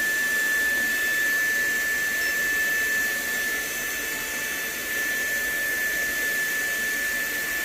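Hoover Blade Max cordless stick vacuum with a brushless digital motor running steadily on low power. It gives a high, even whine over a rush of air.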